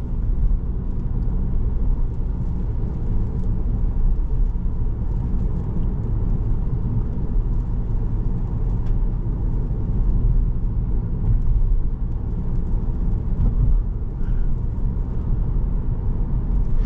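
Steady engine and road rumble heard inside the cabin of a 2017 Volkswagen Jetta SE with a 1.4-litre turbocharged four-cylinder, driving along at an even pace.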